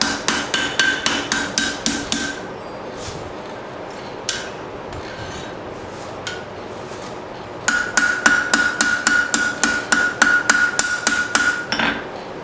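Hand hammer striking steel round stock in quick, even blows, about four a second, texturing the shaft of a forged bird feeder hanger. The steel rings with each run. There are two runs of blows with a few single strikes between them.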